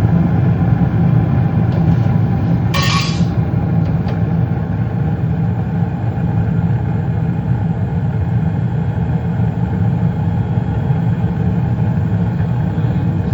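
Gas furnace running with a steady low rumble from its inducer motor. About three seconds in comes a brief burst of noise as the gas valve opens and the burners light, and then the steady rumble carries on.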